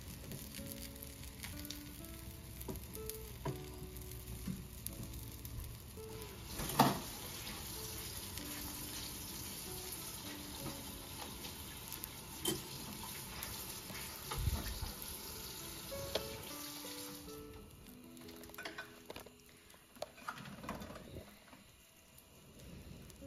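Egg-battered stuffed chiles frying in hot olive oil in a pan, a steady sizzle with a sharp knock about seven seconds in. The sizzle drops away about seventeen seconds in.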